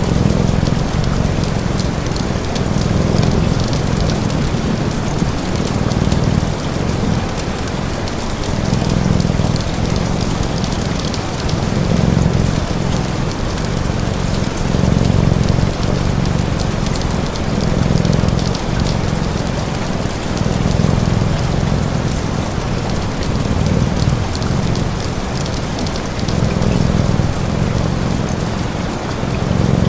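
Steady rain, with a low purr swelling and fading every couple of seconds and fine crackles from a fire.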